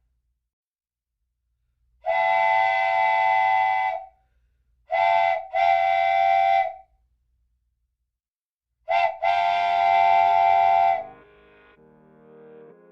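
RailKing model train's sounded whistle: a steady multi-tone chord blown in five blasts, one long, then a short and a long, then a short and a long, with pauses between. Fainter, shifting tones follow near the end.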